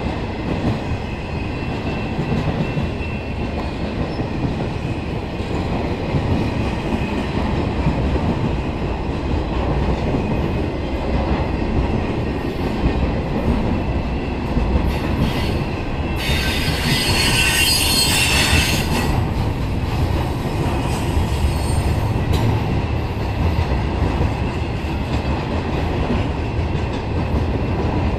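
BNSF intermodal freight train's cars rolling past close by: a steady, loud rumble of steel wheels on rail. About two-thirds of the way through, a high screech from the wheels rises over the rumble for about three seconds.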